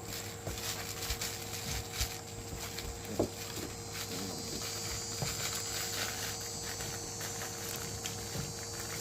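German shepherd puppies playing: scuffling and pattering paws with many small knocks, and a couple of short squeaks about three and four seconds in.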